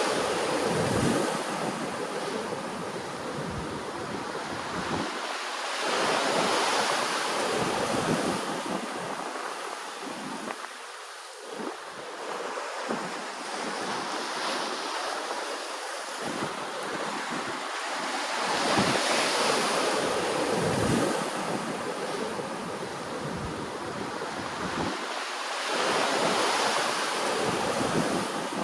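Ocean waves washing onto the shore in a steady noisy rush that swells and eases about every six or seven seconds.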